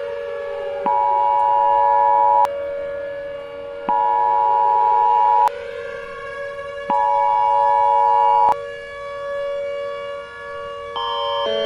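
Synthesized emergency-alert audio: a slow siren wail falling and rising in pitch over a steady two-note drone. It is cut through by three loud two-tone beeps, each about a second and a half long, and near the end a rapid sequence of alternating alert tones begins.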